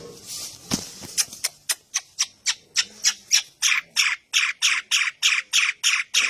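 A bird gives a fast, even run of short, harsh calls, about four a second, which grow louder a little past halfway through.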